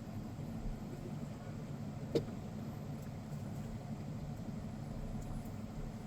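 Semi-truck running in slow-moving traffic: a steady low rumble of diesel engine and road noise, with a single sharp click about two seconds in.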